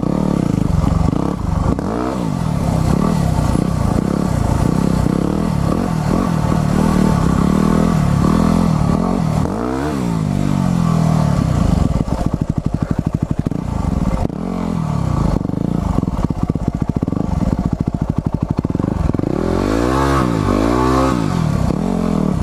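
Motorcycle engine being ridden hard off-road, revving up and dropping back several times, with rattling and clattering from the bike over rough ground.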